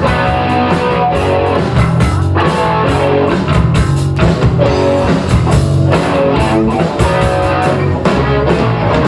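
Live rock band playing loudly: electric guitar over bass and drum kit, without singing.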